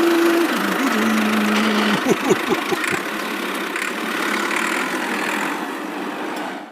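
A steady, loud engine-like running sound of the mini truck. It cuts off suddenly at the very end.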